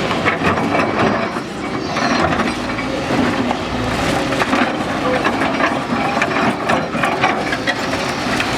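Dense, continuous clattering and cracking, like wood and debris breaking up, over a faint steady hum.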